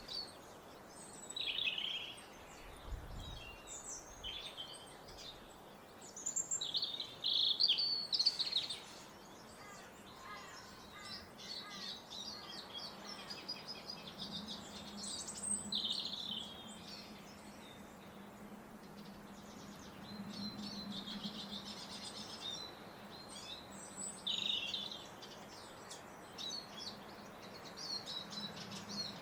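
Several birds singing and calling, overlapping short chirps and trills, with a faint low hum in the second half.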